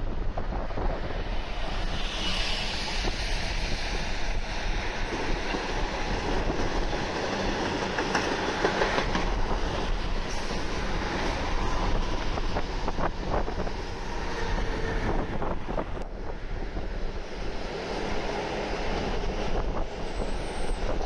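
Metro suburban electric train running past on the tracks through the junction, with a steady rolling rumble and a run of sharp clicks from the wheels over the points and rail joints about halfway through.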